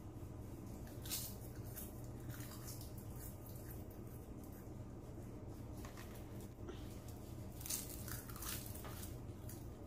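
Crispy roasted seaweed sheets being bitten and chewed: scattered soft crunches and crackles, clustered about a second in, around two seconds in and near the end, over a faint steady low hum.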